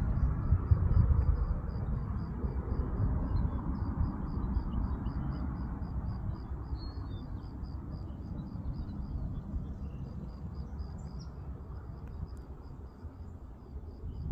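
Outdoor ambience: a low rumbling noise, loudest at first and slowly fading, under a high, even chirp that repeats about three to four times a second.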